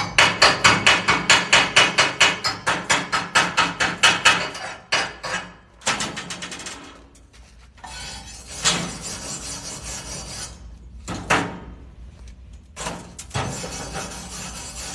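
Chipping hammer rapping on a fresh flux-core weld bead to knock off the slag, about five quick metal blows a second for roughly five seconds. This is followed by irregular scraping and rubbing over the metal.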